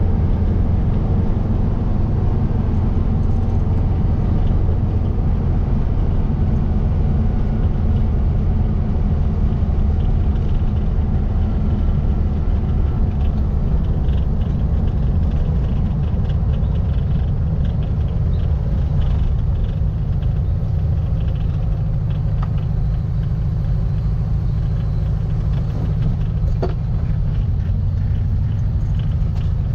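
A Baja Bug's 1700cc air-cooled VW flat-four engine running steadily while driving, a low drone with no clear revving.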